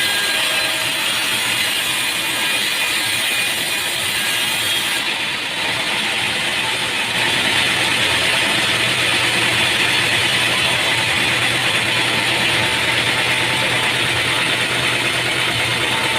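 Machinery running steadily with a dense mechanical clatter. The sound shifts abruptly about five seconds in, and a steady low hum joins about two seconds later.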